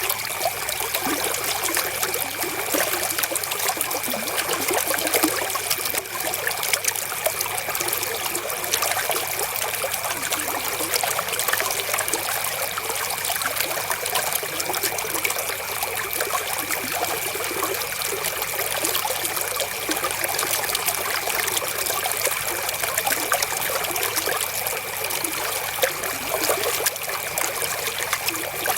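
River water flowing steadily in a continuous, even splashing trickle. A faint steady high tone runs beneath it.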